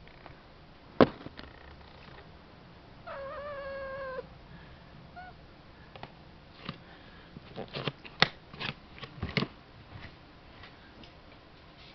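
A cat gives one drawn-out meow of about a second, with a short faint call a couple of seconds later. Sharp knocks sound around it, the loudest about a second in and a cluster of them near the end.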